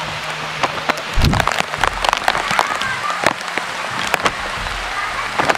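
Rain falling steadily, with many close drops tapping and clicking sharply, and faint voices in the background.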